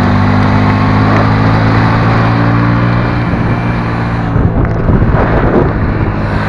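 Motorcycle engine running steadily at idle, then its note breaks up and wavers for about two seconds near the end before settling back to a steady idle.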